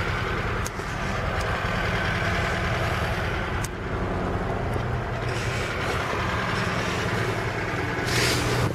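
VAZ-2101 Zhiguli four-cylinder petrol engine running steadily with the choke pulled out, with a couple of light clicks early on and a short hiss near the end.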